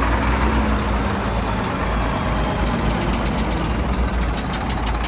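A truck's diesel engine running close up, just after air was bled from its fuel system, with a rapid run of sharp high clicks over it in the second half.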